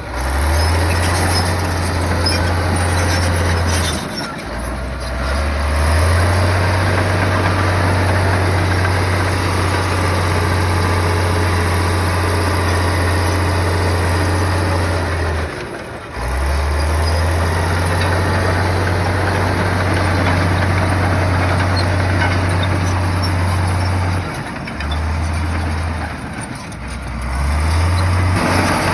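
Heavy diesel engine of earthmoving machinery running under changing load, with a deep drone that rises and falls. It dips several times, about 4, 16 and 25 seconds in, then picks up again.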